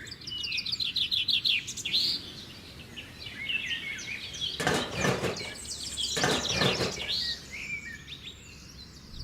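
Birds chirping and singing: a fast trill of repeated high notes in the first two seconds, then scattered chirps and whistles.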